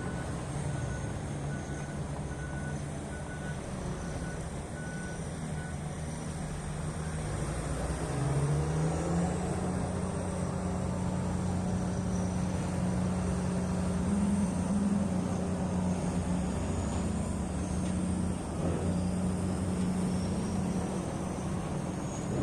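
Heavy mining machine's diesel engine running, with a reverse alarm beeping steadily until about six seconds in. The engine then revs up and runs louder from about eight seconds.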